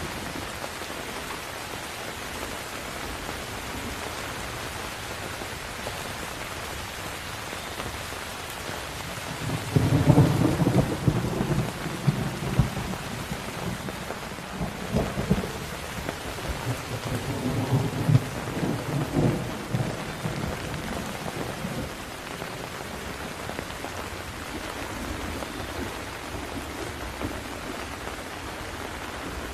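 Steady rain falling, with a roll of thunder rumbling in about a third of the way through, swelling again twice and fading out before two-thirds of the way through, leaving only the rain.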